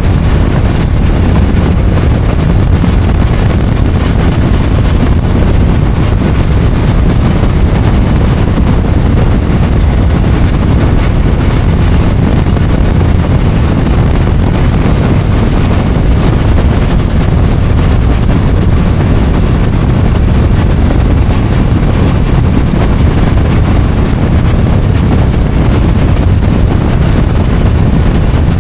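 BMW F800GS motorcycle's parallel-twin engine running steadily under way, with wind rushing over the microphone.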